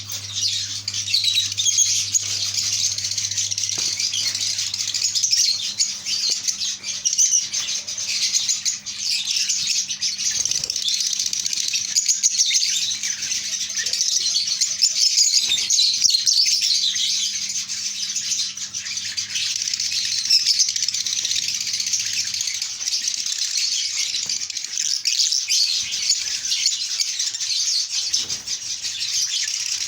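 A crowd of lovebirds chattering and chirping nonstop, many shrill overlapping calls at once. A faint low hum underneath stops about two-thirds of the way through.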